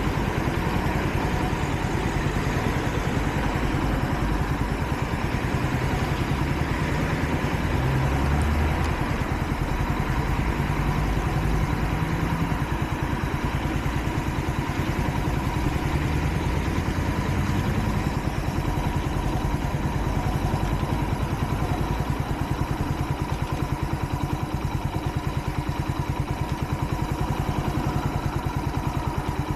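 Kreidler Dice CR 125's single-cylinder 125 cc four-stroke engine running under way, its pitch shifting up and down for a few seconds in the first half, then holding steady. The engine is new and still being run in, so it is kept at moderate revs.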